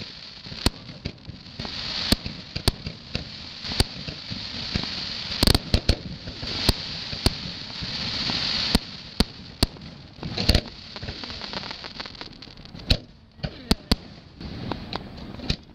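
Aerial fireworks shells bursting: a string of sharp bangs at irregular intervals, with the loudest clusters about five and a half and ten and a half seconds in.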